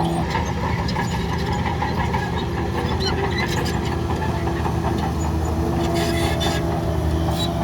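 Heavy diesel engine of earth-moving machinery running at a steady pitch, with scattered light clicks and rattles that are busiest about six seconds in.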